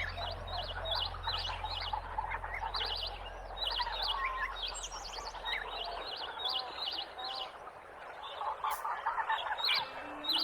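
Rainforest birds chirping: quick bursts of short, high chirps repeating over a busy bed of softer calls and hiss, with a low steady hum that stops about six seconds in.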